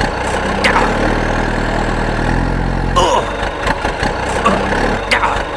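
Engine running at idle, a steady low drone, with scattered clicks and a few short squeaky glides over it.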